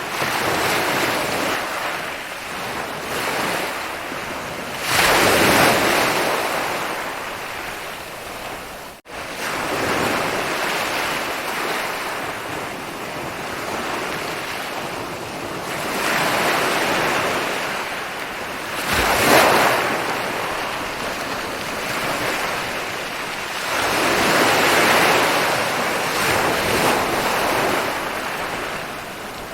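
Ocean waves rolling and breaking on a beach, swelling every several seconds. The sound cuts out for an instant about nine seconds in.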